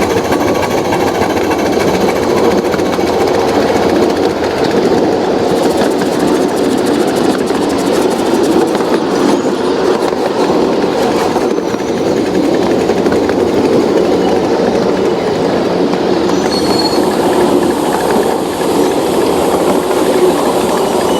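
Small railroad train running along the track: a steady, dense clatter of wheels on rail with machinery running underneath.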